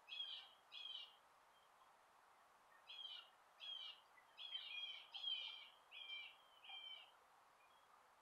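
A bird calling faintly, short clear repeated call notes: two near the start, then after a pause of about two seconds a run of six in quick succession, over faint outdoor background noise.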